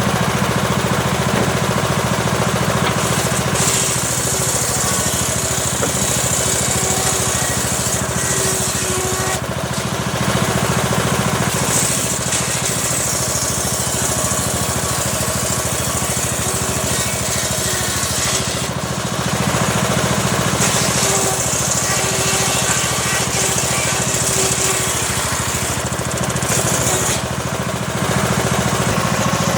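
Homemade circular saw rig slowly ripping a small teak log. Its power unit drones steadily underneath a high, hissing cutting sound that swells and fades every few seconds as the blade works through the wood.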